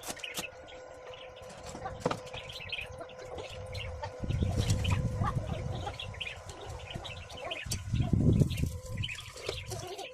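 Birds chirping over and over in short calls, with a steady hum underneath and two spells of low rumble, about four seconds in and again about eight seconds in.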